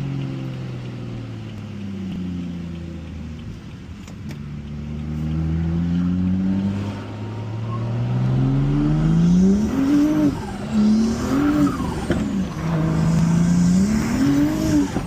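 Turbocharged BMW N55 3.0-litre inline-six with an upgraded big turbo. For the first several seconds it runs at low, slowly changing revs. From about eight seconds in it pulls hard, the revs climbing and dropping back three times as it shifts up.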